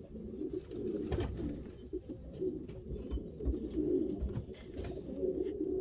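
Racing pigeons cooing in a loft: many low, overlapping coos, with a few soft low bumps.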